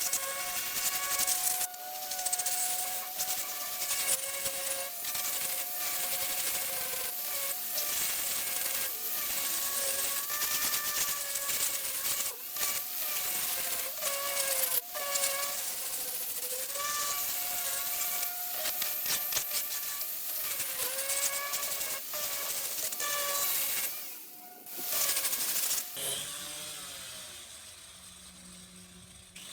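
A handheld electric power tool sanding down fiberglass around a damaged RV body corner: a steady whine with a hiss of abrasion, its pitch dipping again and again as it is pressed into the work. It stops about 24 seconds in, runs again briefly, then spins down with falling pitch near the end.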